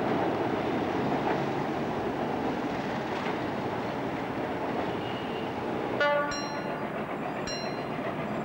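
A passenger train running past on the rails, a steady rumble of wheels and coaches. About six seconds in, a train horn gives one short blast, the loudest sound here, and faint high chirps recur every second or so.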